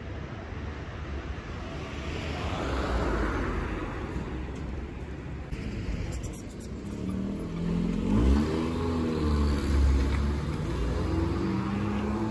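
Street traffic: a vehicle's engine rumbles past, then from about halfway through an engine revs with a rising pitch as it pulls away and keeps running.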